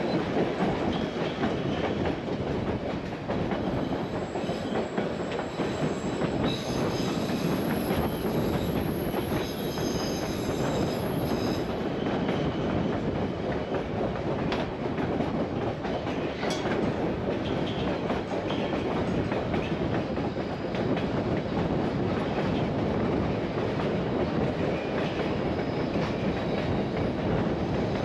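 Narrow-gauge train running on the rails: a steady rumble and clatter of wheels and cars, with a faint high-pitched squeal from about six to twelve seconds in.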